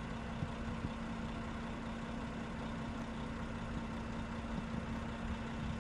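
Steady idling engine hum with a constant low tone and an even rumble beneath it.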